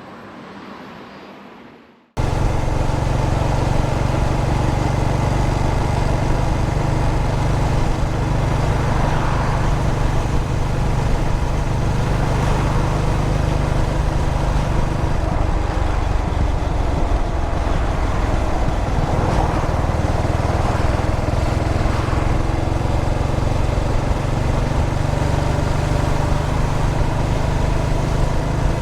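Air-cooled single-cylinder engine of a 2003 Yamaha SR400 motorcycle running steadily under way, with wind and road noise. It cuts in suddenly about two seconds in, after a quieter sound fades out.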